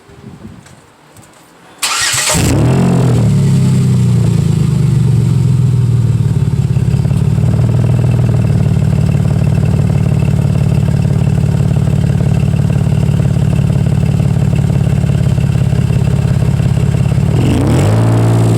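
2008 Dodge Nitro's 3.7 V6 cranking and starting about two seconds in, then settling into a steady idle through a Thrush turbo welded muffler whose pipe stops short of the rear. Near the end it revs up a little.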